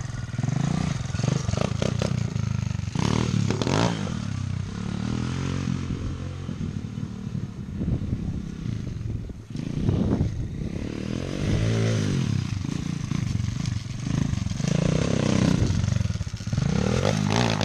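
Lifan pit bike's small single-cylinder engine revving up and down as the bike is ridden, its pitch rising and falling in several swells.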